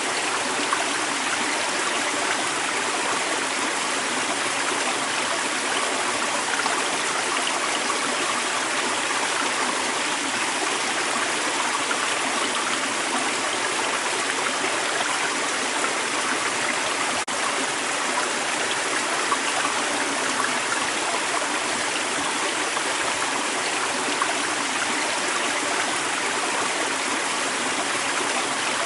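Creek water running and splashing over rocks in a steady, unbroken flow.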